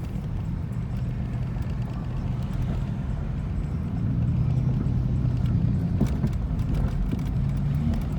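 Car engine running, a steady low hum that gets louder about halfway through.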